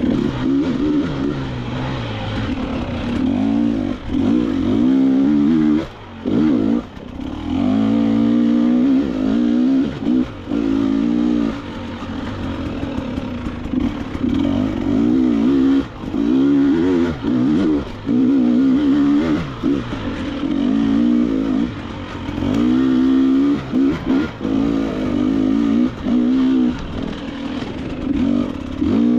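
KTM 300 XC-W two-stroke dirt bike engine revving up and down under constant throttle changes while riding a trail, its pitch rising and falling every second or two, with a few brief throttle-offs where it drops away.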